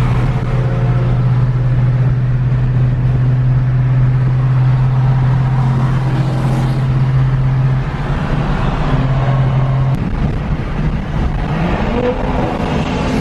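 Car engine running with a steady drone at cruising speed, then its pitch rises about eleven seconds in as it accelerates and holds at the higher revs.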